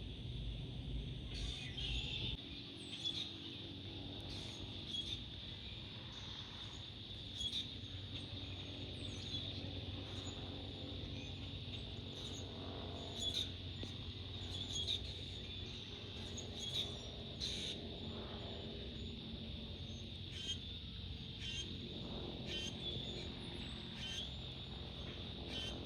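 Small birds chirping again and again over a steady low drone.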